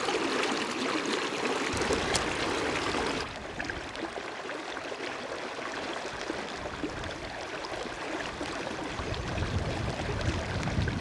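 A river flowing over shallows, heard as a steady rushing hiss, with wind rumbling on the microphone near the end. About three seconds in, the hiss drops off sharply.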